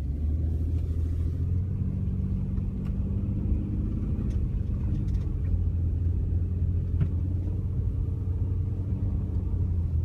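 Car driving slowly, heard from inside the cabin: a steady low engine and road rumble with a few faint ticks.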